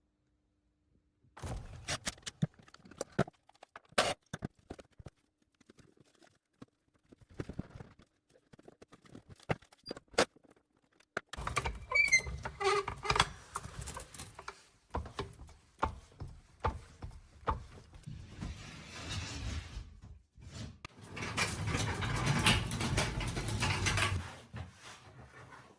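Irregular clicks and knocks from objects being handled, with two longer stretches of scraping or rustling in the second half.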